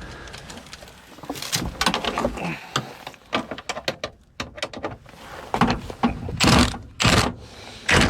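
Hand tools working on metal under a truck: scattered clinks and knocks, a run of quick clicks about halfway through, and several short, louder bursts of noise near the end.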